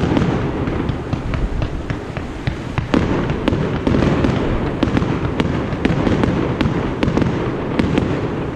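Fireworks going off in rapid succession: many sharp pops and crackles over a continuous dense rumble of bursts.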